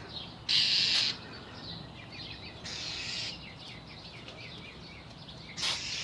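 An agitated bird giving harsh, rasping scolding calls at a cat, three of them about half a second long each, with faint chirps of other birds behind.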